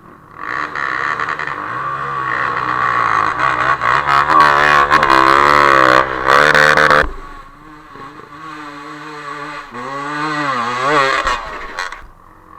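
Off-road vehicle engine revving hard while pushing through deep mud, its pitch wavering and climbing, then cutting off abruptly about seven seconds in. A second, quieter surge of revs comes around ten to eleven seconds in.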